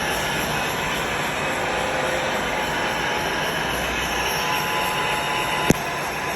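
Metal lathe running while it machines a steel shaft: a steady mechanical noise with faint steady whine tones, and a single sharp click near the end.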